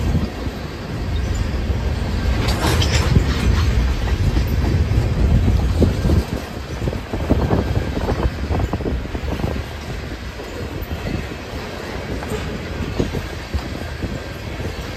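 A train running past on the track: a steady low rumble of wheels on rail, with a louder scraping stretch about three seconds in and a run of wheel clicks over rail joints later on.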